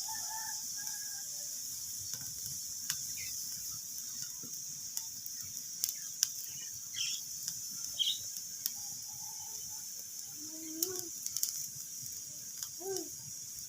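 Wood fire crackling, with irregular sharp pops and snaps over a steady hiss. A few short pitched squeaks come near the end.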